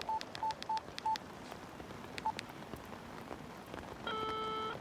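Phone keypad beeping as a number is dialled: short beeps all at one pitch, four in the first second and one more a little after two seconds in. Near the end a steady ringing tone starts as the call rings through.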